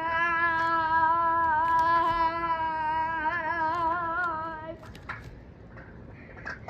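A child's singing voice holding one long note at a steady pitch, wavering slightly toward the end, and stopping about five seconds in; a few faint clicks follow.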